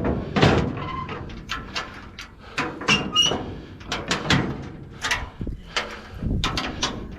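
An irregular run of knocks and clanks, two or three a second, from gear being handled while loading scrap, with a brief squeak about three seconds in.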